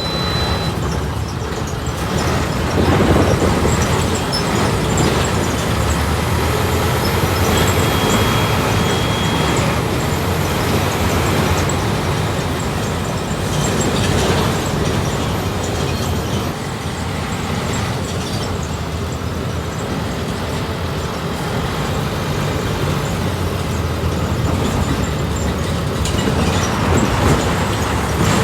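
Volkswagen 17.230 OD city bus's diesel engine running on the road, heard from inside the passenger cabin along with road noise and body rattles. The engine swells louder about three seconds in, again around the middle and near the end. Brief high beeps sound at the start and about eight seconds in.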